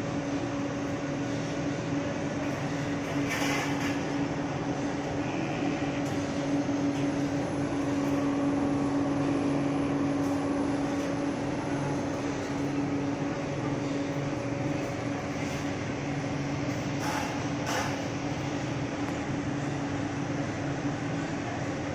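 Industrial steam boiler plant running: a steady rushing machine noise with a constant low hum, broken by a few brief clicks.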